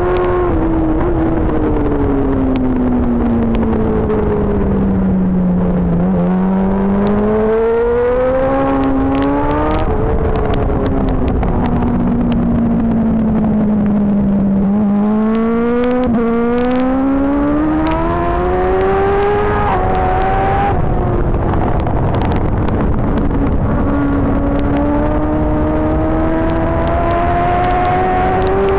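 Racing superbike engine heard on board through a lap: the revs fall away under braking, then climb again through the gears with a short dip at each upshift, a cycle that repeats three times.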